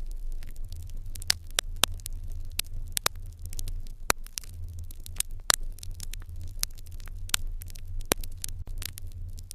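Wood fire in a fireplace crackling: irregular sharp pops and snaps, sometimes several in quick succession, over a steady low hum.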